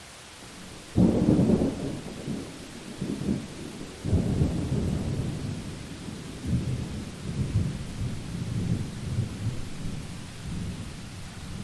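Thunderstorm: a sharp thunder crack about a second in, a second crack about four seconds in, then long rolling rumbles, over a steady hiss of rain.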